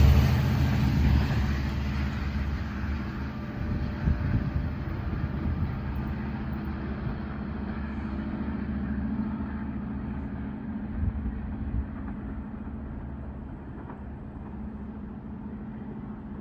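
Long Island Rail Road train moving away after passing, its rumble fading steadily, with a low hum and a few faint knocks as it recedes.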